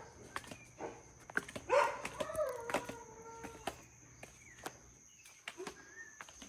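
A dog or cat gives one drawn-out whining call, about two seconds long, that wavers and then slides down in pitch. It comes about two seconds in, with scattered sharp clicks and taps around it.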